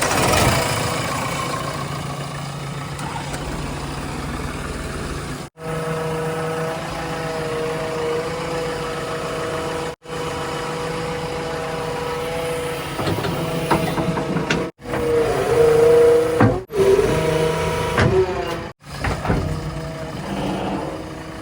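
Heavy diesel engines of earthmoving vehicles, a backhoe loader, tippers and tractors, running and revving under load. The sound breaks off abruptly several times, and the pitch rises and falls in the later part.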